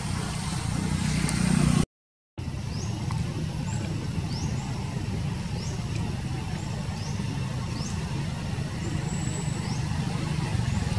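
A vehicle engine running with a steady low rumble, broken by a brief total dropout about two seconds in. Short, high rising chirps repeat about twice a second over it.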